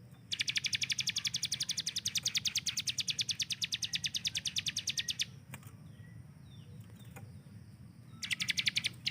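Ciblek gunung (a prinia) singing a rapid machine-gun-like 'tembakan' volley of high, evenly repeated notes, about ten a second, for about five seconds. After a short pause with a few faint chirps, a second volley starts near the end.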